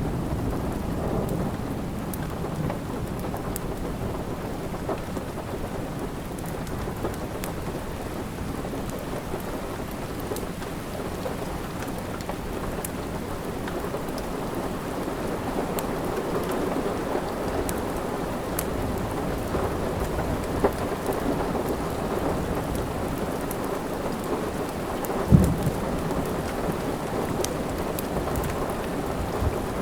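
Steady rain with a low rumble, and the sparse crackles of a wood fire in a fireplace; one louder pop or snap comes late on.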